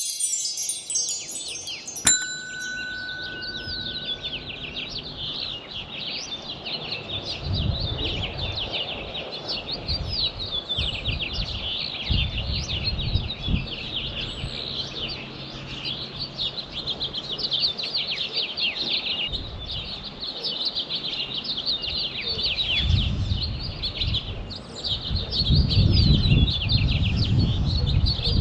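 A brief shimmering chime in the first two seconds, ending in a click and a single held tone, then a dense chorus of songbirds chirping and singing over each other with no let-up. Several times a low rumble rises under the birdsong.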